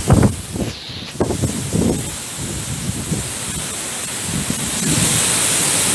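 Strong wind gusting through trees, the leaves rustling, with wind buffeting the microphone in low rumbles; the gust builds about four and a half seconds in.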